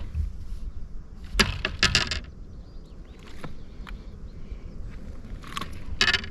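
Light metallic jangling and clattering in two short bursts, about a second and a half in and again near the end, as a just-landed bass is handled with the wobble head jig still in its mouth. A low wind rumble runs underneath.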